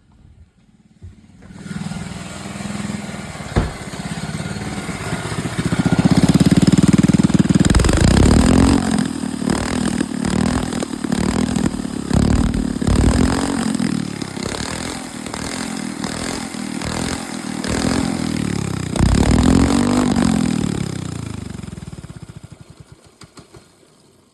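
Minibike engine starting, then revved up and down several times, with a rapid scatter of sharp exhaust pops and crackles as it backfires and shoots flames. It dies away near the end.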